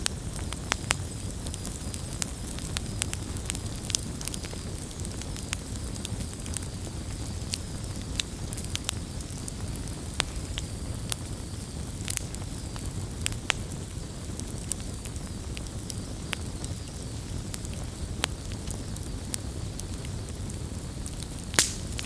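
Wood bonfire crackling: frequent sharp pops and snaps over a steady low rush of flame, with one louder pop near the end.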